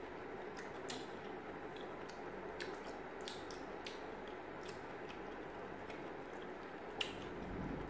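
Close-up chewing and biting of pickle pieces: scattered crisp mouth clicks over a steady low hiss, with one sharper click near the end.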